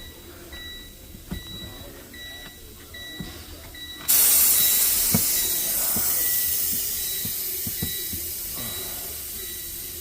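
Truck air-ride driver's seat dumping its air: a sudden loud hiss about four seconds in that slowly fades, after a few light knocks. A regular electronic beeping pulses throughout.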